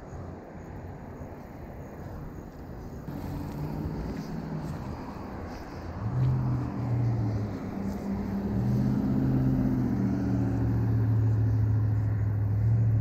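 Engine of a passing motor vehicle: a low, steady hum that sets in a few seconds in and grows louder through the second half.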